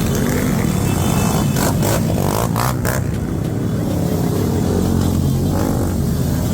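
A group of motorcycles running and revving, their engines droning steadily, with a few short sharp noises about two seconds in.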